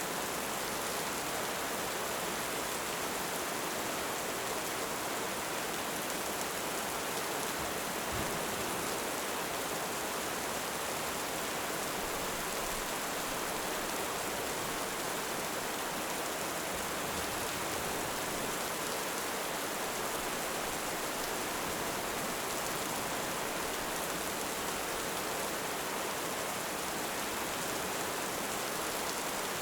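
Heavy rain falling steadily, an even hiss that neither swells nor fades.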